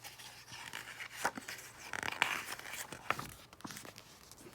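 Paper rustling and light scraping in short, uneven swishes with soft clicks: the pages of a picture book being handled and turned.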